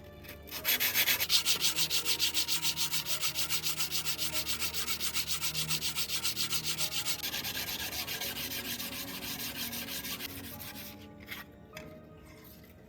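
Quick, even back-and-forth abrasive strokes as a rusty knife blade is sanded by hand. The strokes run steadily from about half a second in and fade out near the end.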